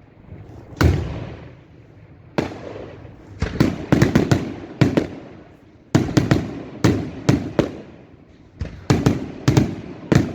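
Daylight fireworks going off: a rapid, irregular run of loud bangs in clusters, each with an echoing tail. They grow denser about a third of the way in.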